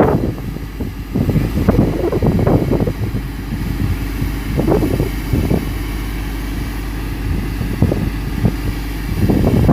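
Fire engine's motor running steadily with a low hum, with scattered short noises over it.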